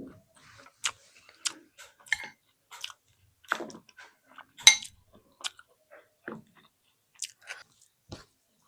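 A person chewing spicy egg and rice close to the microphone: irregular wet mouth clicks and smacks, a few louder ones, the loudest about halfway through.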